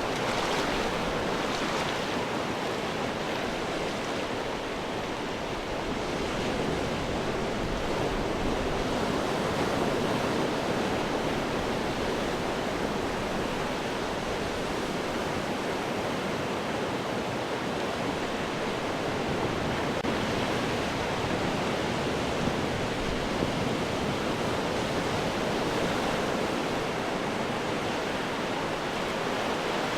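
Ocean surf breaking on rocks: a steady, continuous rush of wave noise that swells and eases only slightly.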